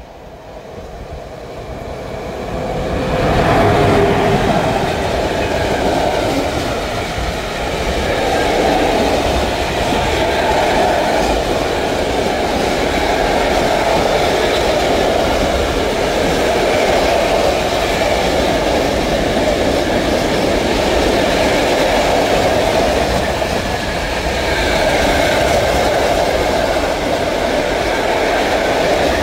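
ET22 electric freight locomotive approaching and passing, growing louder over the first few seconds. A long train of open coal wagons then rumbles steadily past on the rails.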